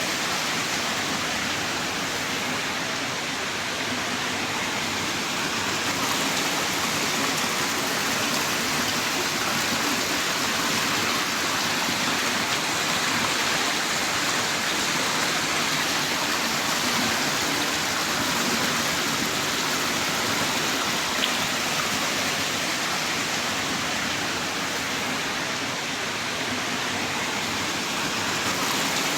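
Heavy rain pouring steadily: a dense, even hiss of downpour.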